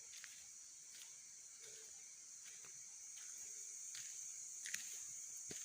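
Steady high-pitched chorus of night insects such as crickets, with faint light footsteps about once a second.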